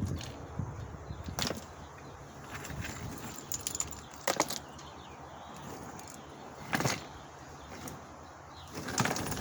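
Three sharp clicks or knocks, spaced a few seconds apart, over a faint steady background noise.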